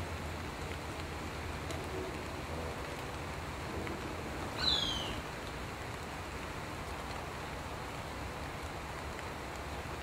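A single bird call about halfway through: one short high note sliding downward. It sounds over a steady background hiss with a low rumble.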